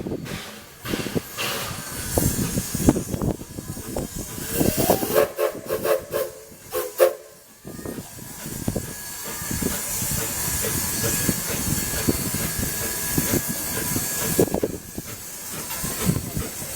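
Steam locomotive working, its exhaust chuffing, then its steam whistle blowing twice about five seconds in. A long, steady hiss of escaping steam follows, and the chuffing picks up again near the end.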